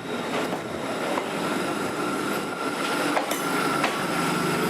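A train running slowly over station track: its wheels click over rail joints, and a thin, steady wheel squeal sets in about a second and a half in.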